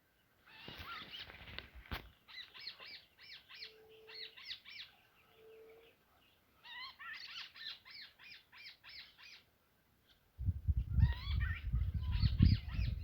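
Birds chirping in fast series of short high notes, in three bursts, with two short low hoots between the first bursts. Near the end a loud low rumbling noise comes in under the chirps.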